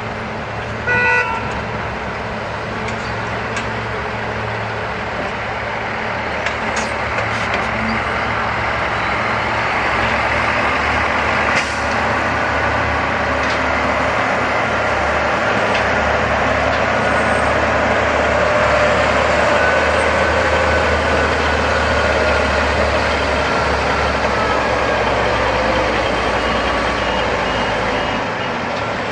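Heavy diesel construction vehicle's engine running steadily, growing louder toward the middle and easing off near the end, with a short horn toot about a second in.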